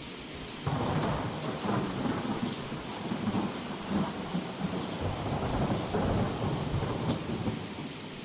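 A thunderclap breaks in suddenly under a second in and rolls on in waves for about seven seconds before fading. Steady heavy rain hisses beneath it throughout.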